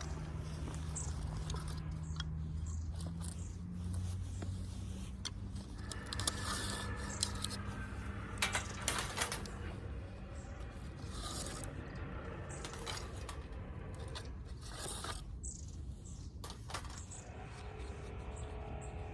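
Wood fire burning in a metal fire pit: scattered sharp snaps and small metallic clicks and scrapes, a quick cluster of them about halfway through, over a steady low hum.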